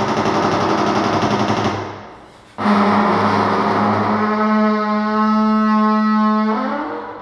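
A fast, buzzing rattle that fades out, then a single long, steady, low horn-like blast that starts suddenly, holds for about four seconds and dies away.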